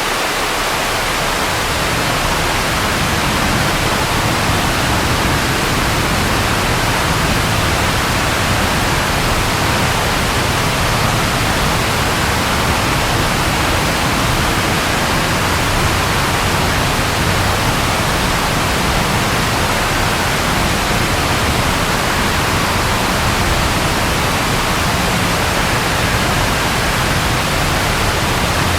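Steady rain falling, an even loud hiss, with a low rumble underneath that fills in about a second in and holds.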